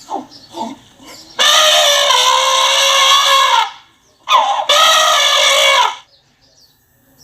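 Elephant trumpeting: a couple of short calls, then two long, loud, pitched trumpet blasts, the first about two seconds long and the second a little over a second.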